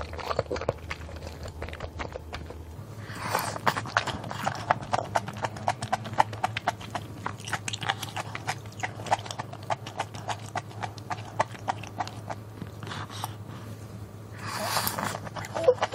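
Close-miked eating of malatang: a steady run of small wet chewing clicks and smacks, with a louder slurp of noodles from the broth near the end and another about three seconds in.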